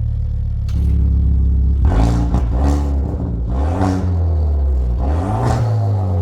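Kia Stinger 2.0 turbo four-cylinder engine idling, then revved in about four quick blips that rise and fall in pitch, through a custom electronically valved aftermarket exhaust.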